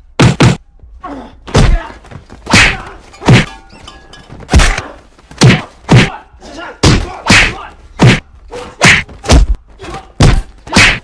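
A rapid, irregular string of about fifteen dubbed-in punch and hit sound effects, thuds and whacks, deliberately bad and over the top, landing one after another through a fistfight.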